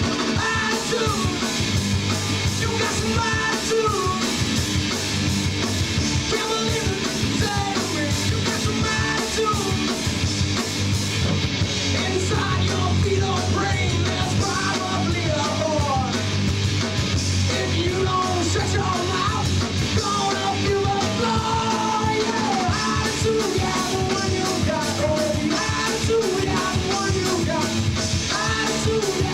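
Live punk rock band playing loud, with distorted electric guitars, bass and drums and a vocalist singing and yelling over them.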